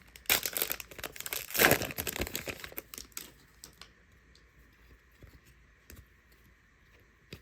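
A plastic trading-card pack wrapper being torn open and crinkled for about three and a half seconds, then faint scattered clicks as the cards are handled.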